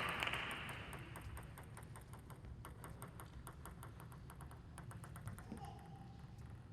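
Faint arena applause dying away in the first second or so, thinning to scattered light claps and clicks, with a brief squeak near the end.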